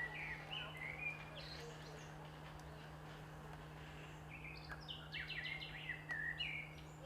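Small birds chirping in short rising and falling notes, with a quick run of repeated notes about two-thirds of the way through. A steady low hum lies underneath.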